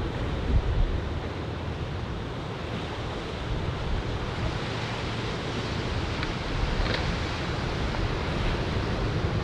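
Ocean surf from an arriving typhoon swell washing onto the beach, with wind rumbling on the microphone.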